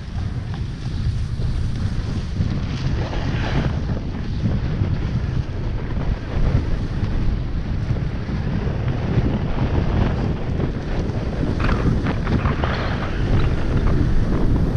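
Wind buffeting the microphone: a loud, steady low rumble, with short hissing scrapes about three and a half seconds in and again around twelve seconds in.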